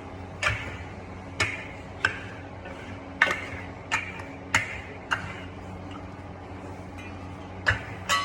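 A series of sharp clicking taps, about nine at uneven intervals of roughly half a second to a second, each with a short ring, over a steady low hum.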